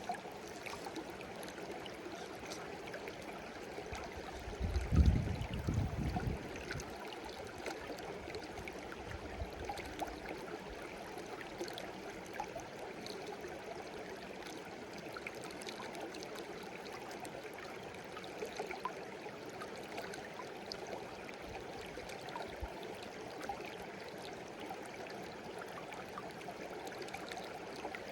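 Small stream babbling and gurgling steadily over rocks, with many small splashes. About five seconds in, a loud low rumble lasts a couple of seconds.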